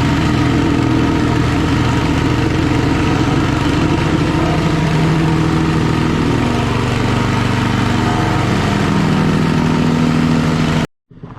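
Engine idling steadily with a deep, even note; the sound cuts off suddenly near the end.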